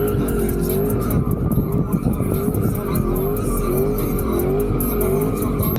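A car doing a burnout: the engine held at high revs while the rear tyres spin and screech against the pavement. A wavering tone rises and falls about once a second over it.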